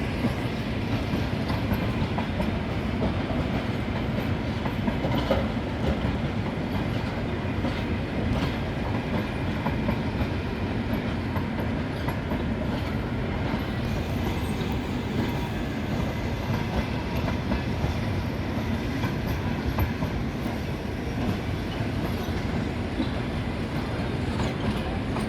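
Passenger train rolling past along the track: a steady rumble of steel wheels on the rails with clicking over the rail joints.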